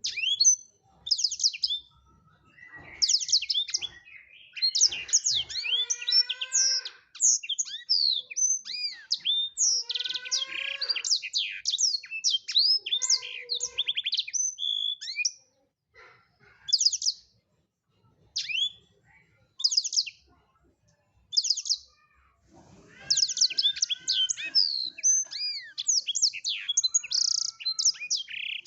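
Blackthroat (black-throated canary) in full song: long runs of fast, varied high chirps and trills. Near the middle the song thins to a few scattered single notes, then turns dense again.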